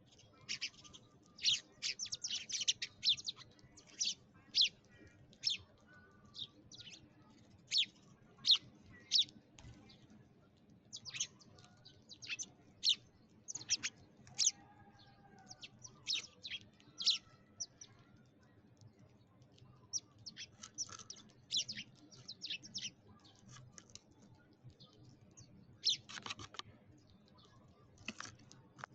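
Sparrows chirping: many short, sharp, high chirps in irregular runs, with brief pauses between the runs.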